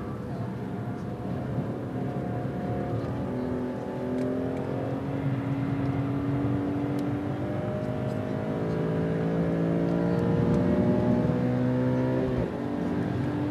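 BMW M3 engine under hard track driving, heard from inside the cabin, its revs rising and falling through the gears. The pitch climbs steadily for several seconds, then drops sharply near the end.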